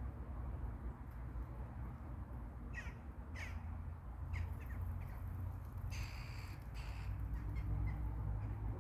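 A few short, high bird calls, the clearest about three and six seconds in, over a low steady rumble.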